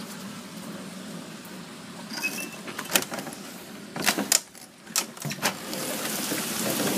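A handful of sharp clicks and knocks, then heavy rain growing into a steady downpour over the last seconds.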